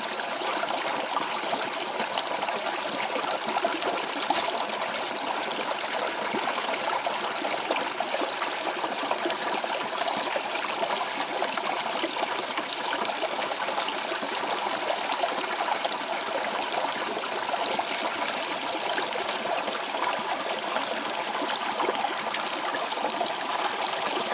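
Stream running: a steady rush and trickle of flowing water.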